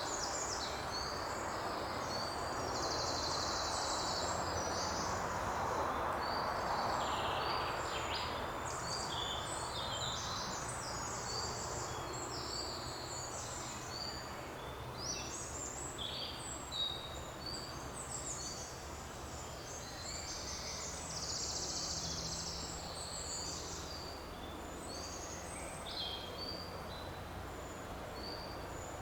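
Several songbirds singing and calling in short, high notes and trills throughout, over a steady rushing forest background.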